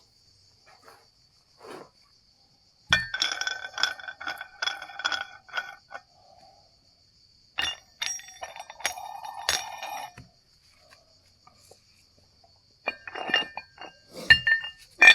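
Metal weight plates clinking and ringing against each other and the bar as they are loaded onto it, in three bursts of knocks with quiet gaps between. A steady faint high tone runs underneath.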